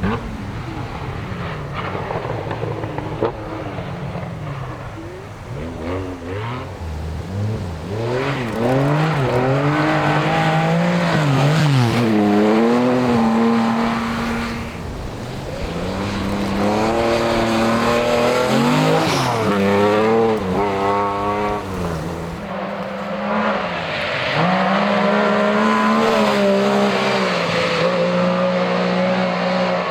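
Historic rally car engines being driven hard, revving up through the gears and dropping back at each shift. The revving grows loud about eight seconds in and again from about sixteen seconds, ending in a long run held at high revs.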